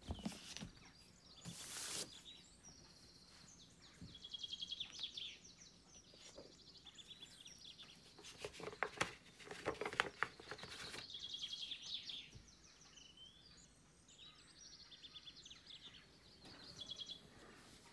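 Songbirds singing short, high, repeated trilled phrases in the background, several times over. In between come the rustles and bumps of a large hardcover book and its glossy dust jacket being handled, loudest about nine to ten seconds in.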